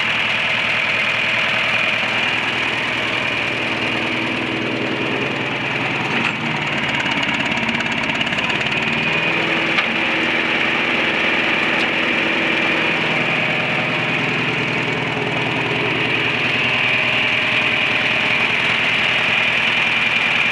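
1969 John Deere 3020 tractor's engine running steadily, at or near idle.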